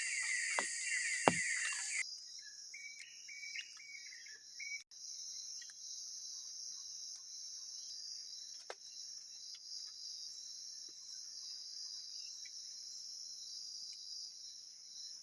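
Night insects, crickets chiefly, trilling in a steady high-pitched drone. For the first two seconds a louder run of rapid chirps sounds over it and cuts off abruptly; after that come a few soft chirps and faint taps.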